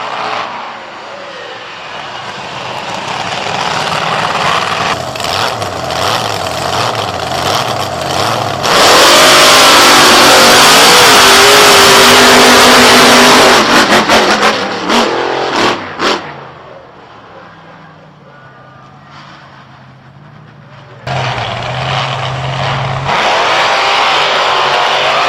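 Big-block monster truck engine noise, revving up and down; about a third of the way in it becomes very loud and overloads the recording for several seconds, then drops to a quieter low idle hum before revving loudly again near the end.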